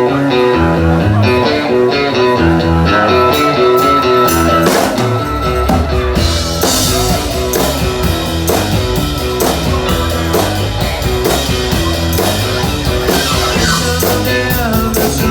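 Live rock band playing the instrumental opening of a song: a repeating guitar and bass figure, with the full drum kit and cymbals coming in about five seconds in.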